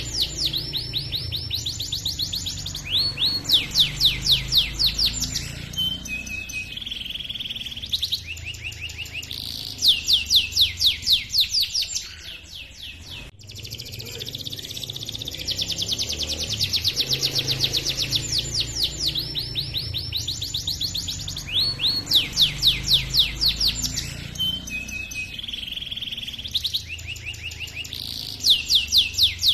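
Domestic canary singing a long song of fast chirping trills and rolling notes, rapid high sweeps in phrases of a few seconds with short pauses between. The song breaks off briefly near the middle and starts over.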